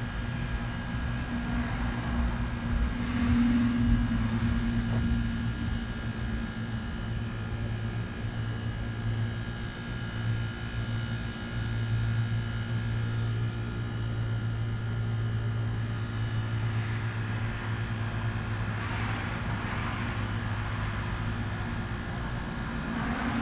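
Trane XR13 heat pump outdoor unit running with a steady low compressor hum and faint steady whine, during its defrost cycle. A hiss swells and fades about three quarters of the way through, and the main low hum drops away near the end.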